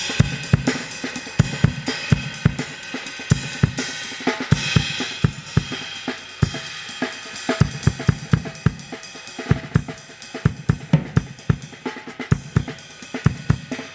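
Acoustic drum kit played in a steady groove, with bass drum, snare and Meinl hi-hats and cymbals ringing over dense, regular strokes. The groove is counted in fives.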